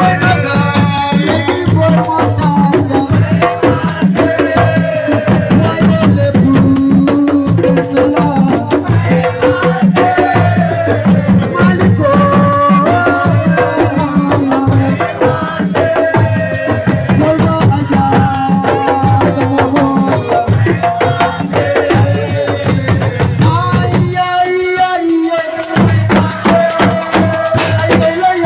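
Assiko band music: dense drums and rattling percussion over a steady low beat, with a melody line above. Near the end the low drums drop out for a moment, then come back.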